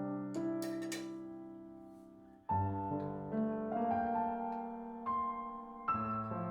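Slow solo piano music: held chords that fade away, with a new chord struck about every three seconds.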